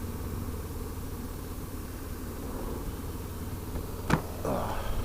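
Aprilia motorcycle engine running steadily at low revs, with a sharp click about four seconds in followed by a brief louder burst of sound.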